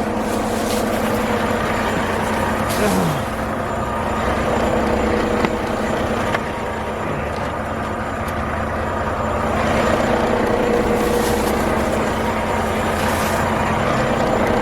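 A truck engine running steadily at idle, a continuous low rumble with a steady hum, with a short falling whine about three seconds in.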